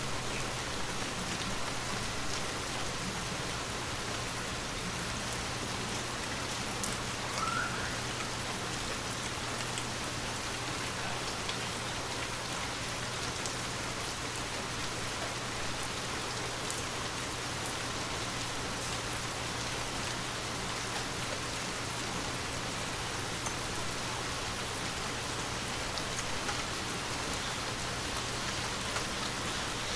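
Steady rain falling, with faint scattered drop ticks over an even hiss and a steady low hum underneath.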